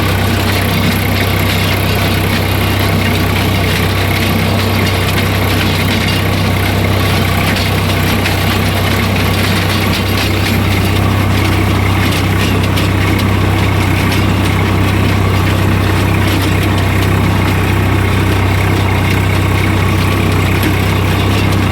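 Swaraj 744 tractor's three-cylinder diesel engine idling steadily.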